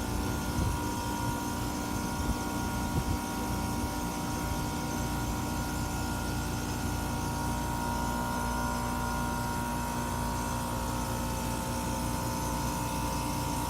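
Newly installed Trane HVAC equipment running: a steady machine hum with several held motor tones over a low rumble, with a few light knocks in the first three seconds.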